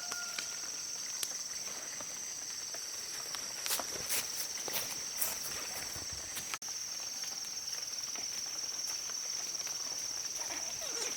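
Outdoor ambience with a steady high-pitched drone throughout and a few scattered clicks and knocks around the middle, with a brief dropout about six and a half seconds in.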